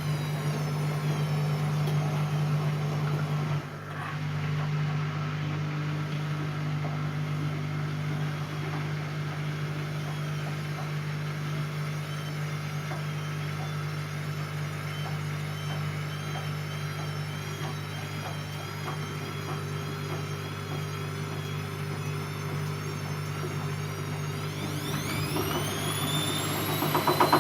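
Siemens Siwamat C10 washing machine running with a steady motor hum. Near the end its motor speeds up, a whine rising in pitch as the level grows.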